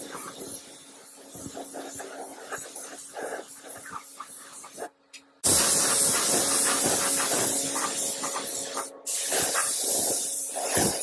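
A loud, steady spraying hiss starts abruptly about halfway through, breaks off briefly, then resumes. Before it there are quieter, irregular handling sounds.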